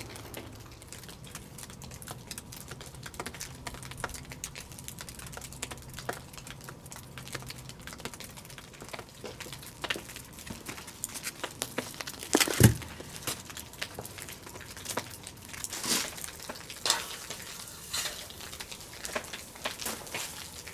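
Scattered clicks and clinks of stainless steel camp cookware being handled during cooking prep, with one louder knock about two-thirds of the way through.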